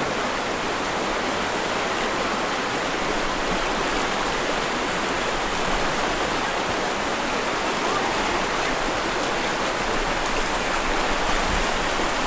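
Steady rushing of flowing creek water, an even hiss-like wash with no breaks.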